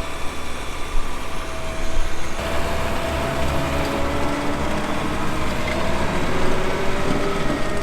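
Prinoth Bison X snowcat's diesel engine running as the groomer drives off down the slope, its pitch drifting slowly, with wind buffeting the microphone.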